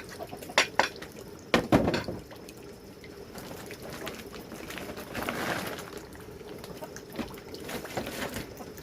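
Liquid being poured, swelling for about a second in the middle, after a few sharp knocks in the first two seconds.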